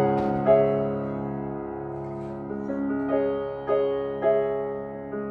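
Live keyboard with a piano sound playing sustained chords, each struck and left to ring: two near the start, then three more in the second half.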